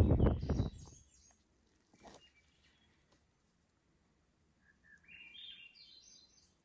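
A songbird sings one short phrase of clear notes that climb steadily in pitch, about five seconds in, against near quiet.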